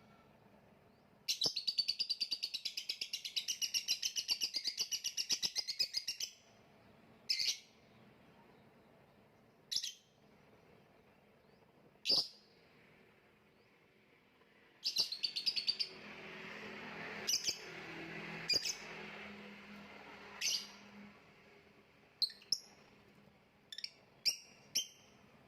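Lovebird singing a long, rapid chattering trill of about five seconds, then single sharp chirps a few seconds apart, a second short burst of trilling, and a cluster of quick chirps near the end.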